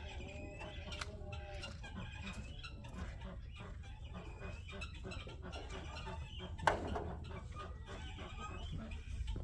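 A flock of chickens clucking, many short calls overlapping throughout, over a steady low rumble. One sharp knock about two-thirds of the way through stands out as the loudest sound.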